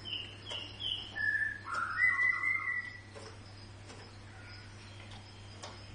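White-rumped shama calling: three quick high whistled notes, then several lower ones, ending in a longer held note about two seconds in. After that only a few faint sharp clicks. It is the repeated calling its owner likens to hiccups.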